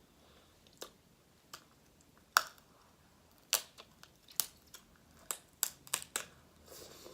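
Sharp, irregular clicks and snaps of snow crab shell being cracked and picked apart, about nine in all, the loudest about two and a half seconds in and a quick cluster near the end.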